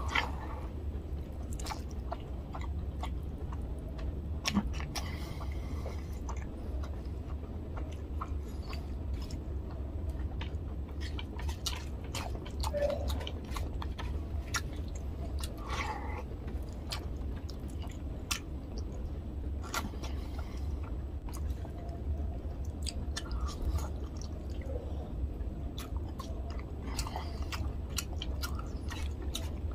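Chewing of a mouthful of rice and tilapia fish curry eaten by hand: wet mouth sounds with many small sharp clicks and occasional crunches, over a steady low hum.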